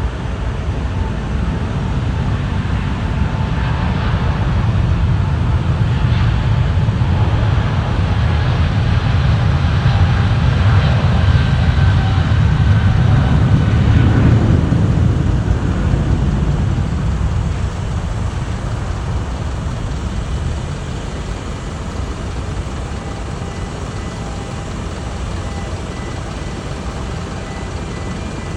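Boeing 777 twin-engine jet airliner taking off at full thrust: a deep jet rumble that builds to a peak about halfway through, then slowly fades as the aircraft climbs away.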